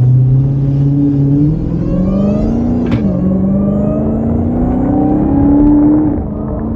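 Dodge Challenger SRT Hellcat Redeye's supercharged 6.2-litre HEMI V8 accelerating under load. The engine note climbs, drops once as the transmission upshifts about three seconds in, climbs again, then eases off near the end.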